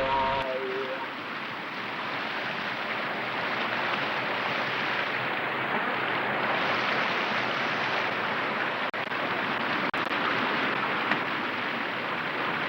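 White-water rapids of a river rushing steadily, with two brief dropouts in the sound about two-thirds of the way through.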